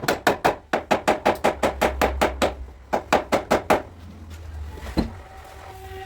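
Hammer tapping on a car's sheet-metal body panel to work out a dent: a fast, even run of sharp taps, about five a second, that stops about four seconds in, then a single tap a second later.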